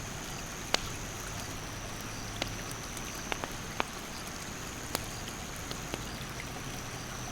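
Wood fire crackling, with sharp irregular pops, over the steady rush of a stream.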